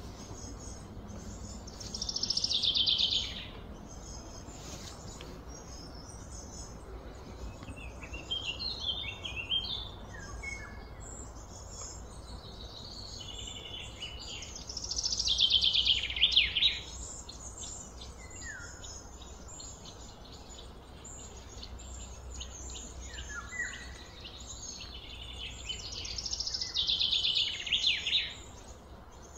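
A songbird singing a fast, high trill that falls in pitch, about a second and a half long, three times roughly twelve seconds apart, with shorter scattered chirps in between. A steady low background rumble runs under it.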